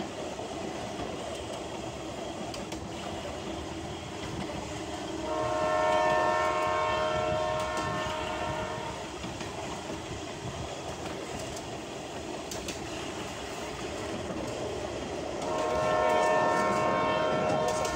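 Commuter train running along the track with a steady rumble and wheel clatter, its horn sounding two long blasts, the first about five seconds in and the second near the end.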